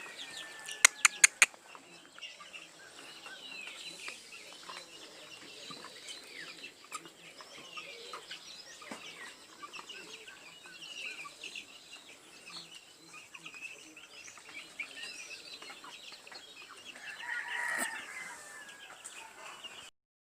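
Birds calling with many short chirps and clucks throughout, and a louder call near the end. Four sharp clicks come in quick succession about a second in, the loudest sounds here, and the sound cuts off abruptly near the end.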